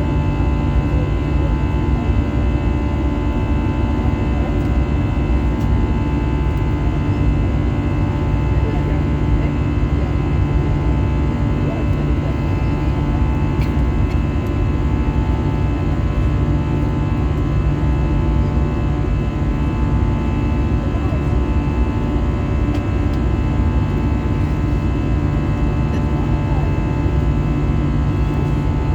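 Steady cabin noise of an Airbus A320-214 in flight: the rumble of its CFM56 engines and airflow with several steady tones over it, unchanging throughout.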